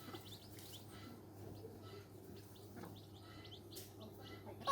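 Newborn chicken chicks peeping: many short, high, thin chirps, overlapping and irregular.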